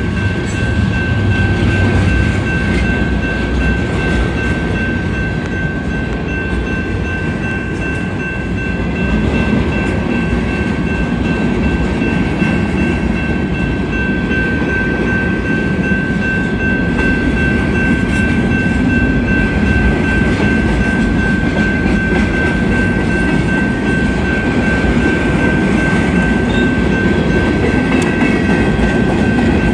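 Freight cars of a long Union Pacific manifest train rolling past, a steady rumble of wheels on rail with a steady high-pitched tone held over it.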